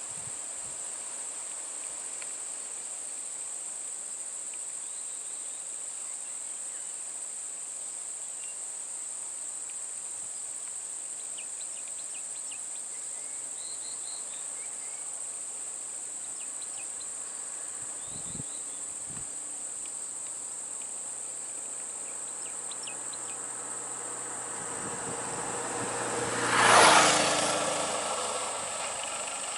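Steady high-pitched insect chorus throughout, with a few faint chirps. Near the end a motor vehicle approaches and passes close by, loudest about 27 seconds in, then fades.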